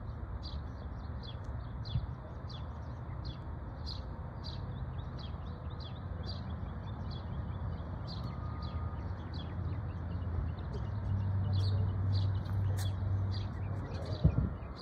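Small birds chirping, a steady run of short high chirps repeating two or three times a second, over a low rumble that grows louder for a couple of seconds near the end.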